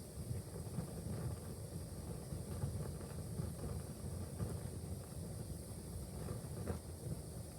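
Wood fire burning in a fireplace: a steady low rumble of the flames with a few faint crackles, the clearest a little before the end.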